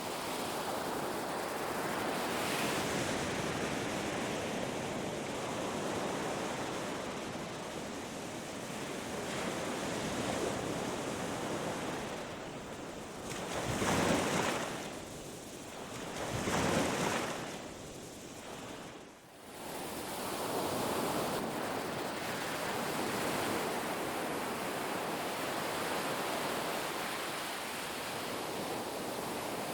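Ocean surf washing on a beach: a steady rush of waves, with two louder waves breaking in quick succession about halfway through, then a brief lull.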